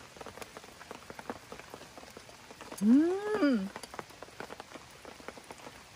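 Rain falling, its drops ticking irregularly and steadily on a surface. About three seconds in, a person lets out one drawn-out 'mmm' that rises and falls in pitch, an appreciative sound made while tasting food.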